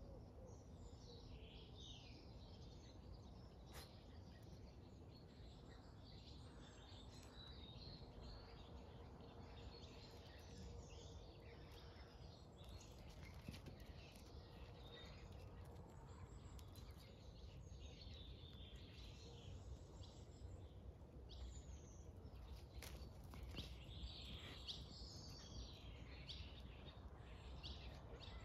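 Faint birdsong outdoors: several small birds chirping and warbling over a low steady rumble.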